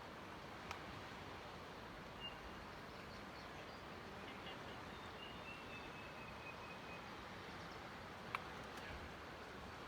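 Steady rushing outdoor background noise with a few faint high bird calls, a short one about two seconds in and a longer falling one in the middle. Two sharp clicks, one near the start and a louder one near the end.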